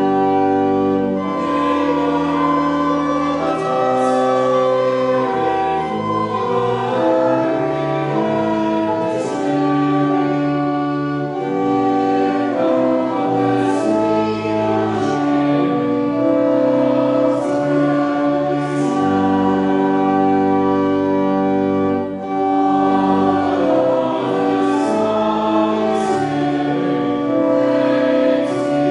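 A congregation singing a hymn to organ accompaniment, with slow held chords that change note by note.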